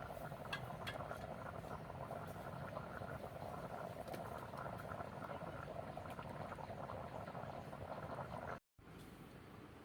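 A pot of liquid bubbling at a steady boil, with small pops and clicks; the sound cuts off abruptly near the end.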